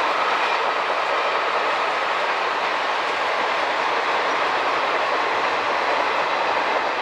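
Express passenger train running past at speed: a steady, unbroken rush of wheels on rail.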